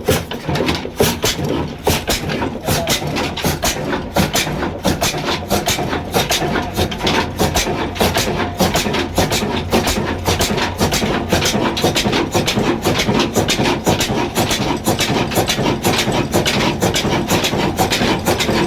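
Old Ruston Hornsby stationary diesel engine running steadily, with a quick, even beat of sharp strokes.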